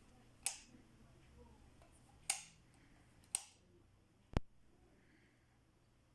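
Four sharp clicks spaced about one to two seconds apart over a faint hum. The first three each have a short bright ringing tail, and the fourth is a very brief dry click.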